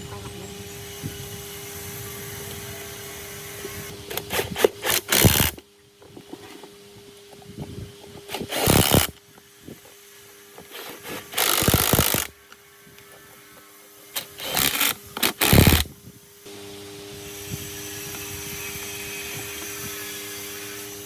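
A workshop power tool run in four short bursts of about a second each, over a steady hum.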